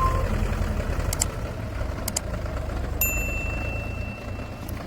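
Engine running with a steady low rumble. There are a couple of faint clicks, and about three seconds in a thin high ding rings for over a second.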